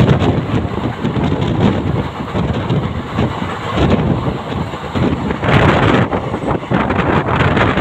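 Wind buffeting the microphone in uneven gusts, over the steady rumble of a train at the station.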